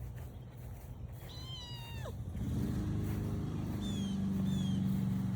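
A kitten meows once, a pitched cry that falls steeply, about a second and a half in. A steady low engine hum then comes up and stays, and two short, high, falling bird chirps sound near the end.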